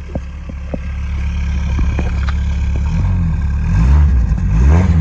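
1996 Chevy S10 pickup engine idling, then revved a few times from about three seconds in, the pitch climbing and falling back with each blip of the throttle.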